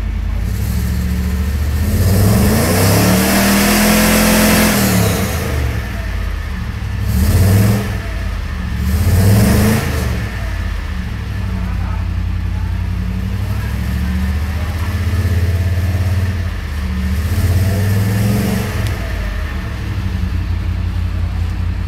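Mercedes 560SEC V8 with a Fuji aftermarket exhaust idling and being revved: one long rev about two seconds in, quicker throttle blips a few seconds later and again near the end, settling back to idle in between. The owner calls the engine imperfect.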